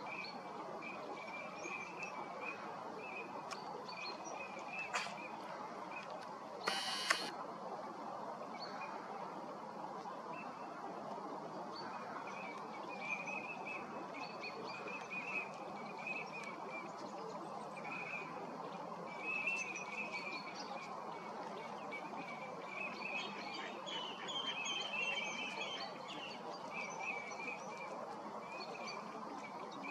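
Faint bird chirps repeating on and off over a steady background hiss, with a brief sharp burst of noise about seven seconds in.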